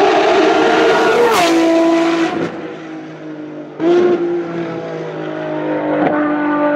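Ferrari racing car engines at high revs on track: a loud engine note drops sharply in pitch a little over a second in and fades, then an engine comes in suddenly loud near the middle and holds a steady high note that climbs slightly toward the end.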